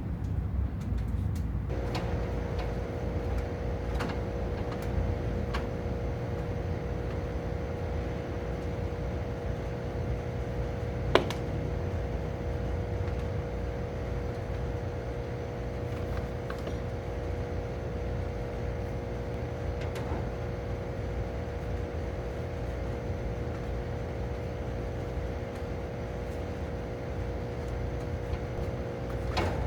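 Steady machine hum over a low rumble; a pitched tone joins about two seconds in and holds, with one sharp knock near the middle.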